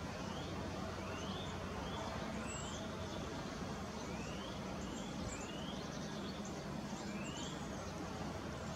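A bird calling repeatedly at a garden feeding station: short rising notes, about one a second, over a steady low background rumble.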